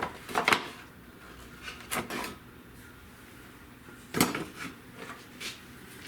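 Hard plastic parts being handled and set down on a workbench: a few separate sharp knocks and clacks, with the loudest just past four seconds.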